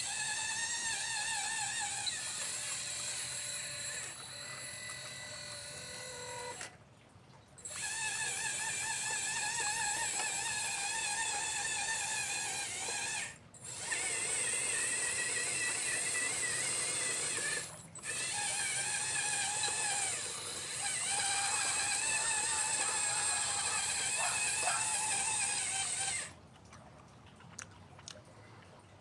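Electric motor and hydraulic pump of a radio-controlled Liebherr 954 model excavator whining steadily, its pitch wavering with the load. The whine cuts out briefly three times and stops for good a few seconds before the end.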